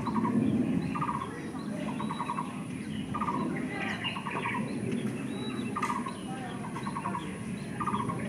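Short buzzy trilled calls, repeated about once a second, with fainter higher chirps of birds, over a low background murmur.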